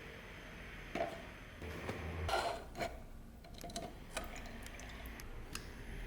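A few light clicks and knocks of small hard objects being handled, spread out over several seconds, with a short scuffling noise about two seconds in.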